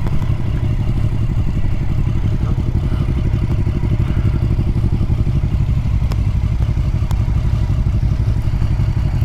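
Motorcycle engine running steadily at low revs, its rapid firing pulses heard close up.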